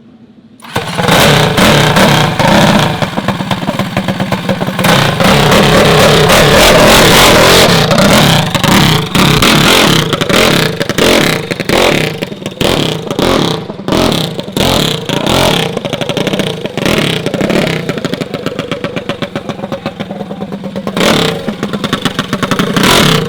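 Minibike engine revving hard under riding, its pitch rising and falling with the throttle, starting suddenly about a second in.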